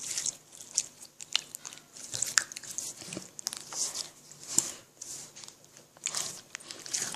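Pink putty slime being squeezed and worked by hand, giving irregular crackles, clicks and squishes.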